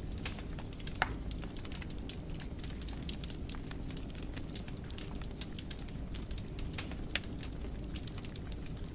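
Wood fire burning in a fireplace: a low steady rumble of the flames with many sharp crackles and pops, the loudest pop about a second in.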